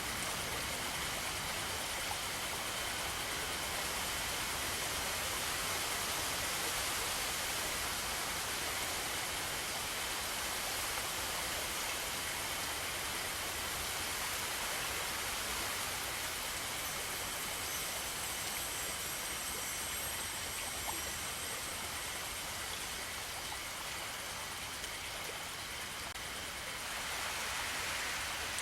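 Steady rush of running water, even and unbroken, with faint thin high tones held steady over it.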